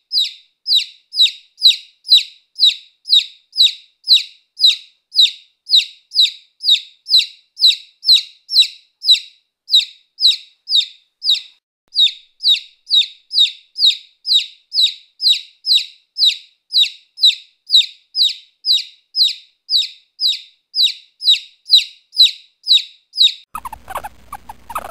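A small animal's high-pitched chirp, a short falling note repeated evenly about twice a second. Near the end it stops, and a lower, scratchy sound takes over.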